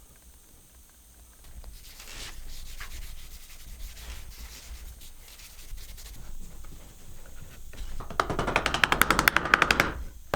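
Wood being sanded by hand: soft rubbing strokes, then a loud run of rapid back-and-forth strokes about eight seconds in.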